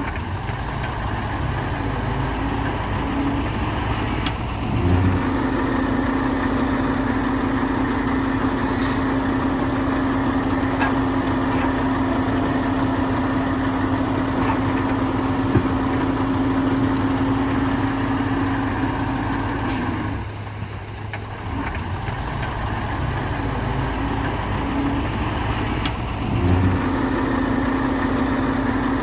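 Heavy diesel engine of a bulldozer running steadily under work. A steady whine joins about five seconds in, drops out for a few seconds after the middle along with a dip in the engine sound, and comes back near the end.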